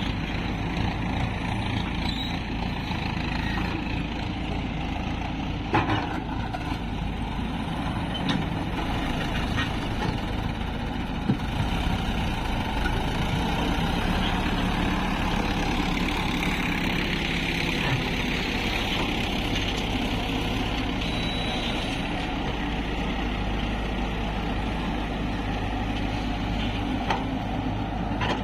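Heavy diesel engines running steadily as a Hyundai Robex 110 excavator loads mud into tractor trolleys. A couple of sharp knocks stand out, one about six seconds in and one about eleven seconds in.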